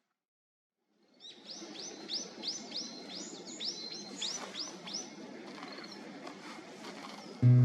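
A small songbird singing a fast series of repeated, downslurred high whistled notes, about three a second for roughly four seconds, over quiet forest background sound. Loud background music starts just before the end.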